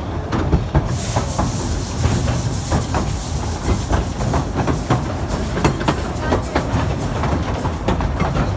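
Amusement-park train riding along its track: a steady rumble with the rapid clickety-clack of wheels over rail joints, and a hiss coming in about a second in.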